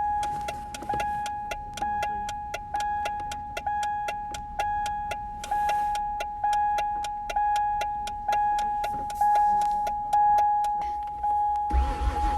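2000 Mercury Cougar's door-open warning chime beeping about once a second over a steady high tone, key on with the door open. A louder, low noise starts near the end.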